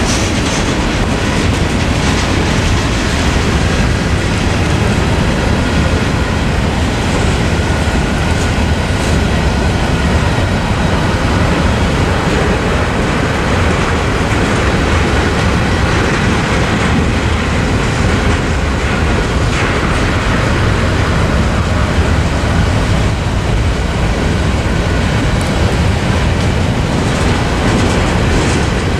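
Freight train cars, covered hoppers and tank cars, rolling through a level crossing: steel wheels running steadily and loudly over the rails.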